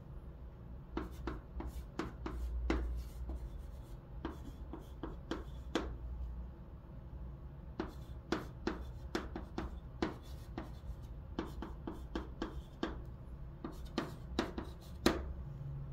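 Chalk writing Chinese characters on a blackboard: quick clusters of short sharp taps and scratchy strokes, with brief pauses between groups.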